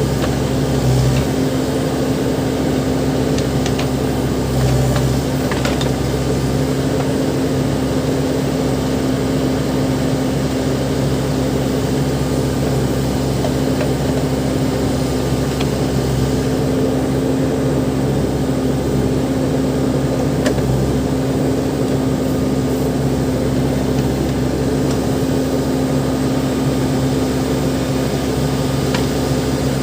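Backhoe loader's diesel engine running at a steady speed, with a few faint knocks in the first several seconds.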